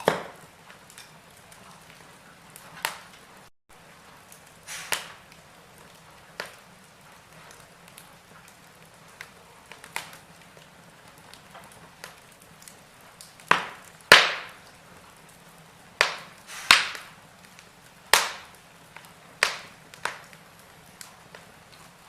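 Wood fire crackling in a fireplace: irregular sharp pops and snaps over a soft hiss, bunched and loudest a little past halfway. The sound drops out for an instant about three and a half seconds in.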